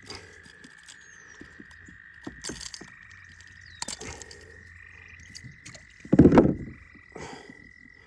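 A chorus of frogs trilling steadily on one pitch, with small clicks and knocks over it and a brief loud noise about six seconds in.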